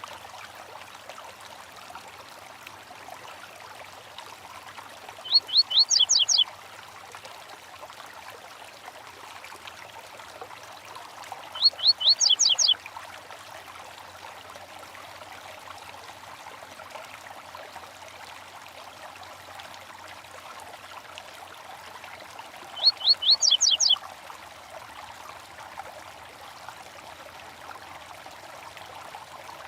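Steady running water of a small stream, over which a songbird sings the same short phrase three times, each a quick run of about seven high, sharp notes lasting about a second.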